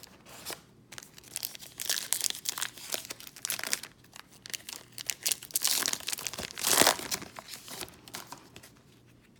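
Crinkling and tearing of a foil trading-card pack wrapper as a pack is ripped open, in two spells of crackling with the loudest rip about seven seconds in.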